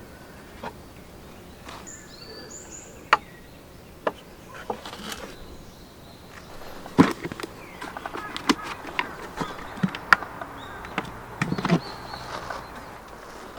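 Scattered, irregular knocks and taps over a faint steady background, growing busier in the second half, with a few short high bird chirps about two seconds in.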